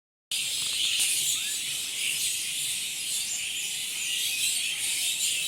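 A dense, continuous chorus of many small birds chirping together, as a flock gathers to roost in the evening.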